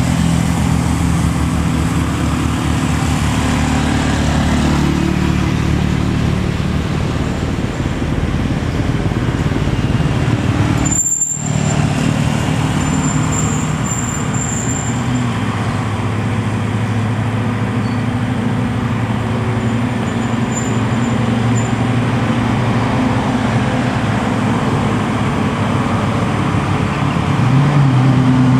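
Heavy truck diesel engines running under load on a steep climb, with road traffic noise. A brief break about eleven seconds in.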